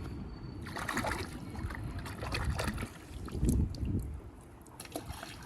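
Creek water trickling, under a low wind rumble on the microphone, with scattered crackling clicks.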